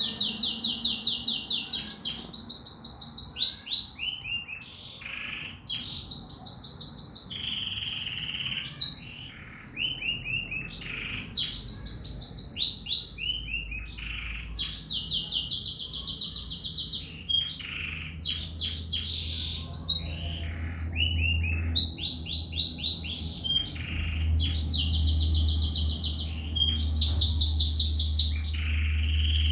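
Domestic canary singing in full song: long rapid trills ('rolls') of fast repeated notes alternating with varied chirping phrases, with hardly a pause. A low steady hum sits underneath in the second half.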